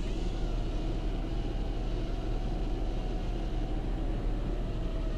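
Steady low rumble and hiss of gale-force wind buffeting a parked car, heard from inside the cabin, with a faint steady whine over it.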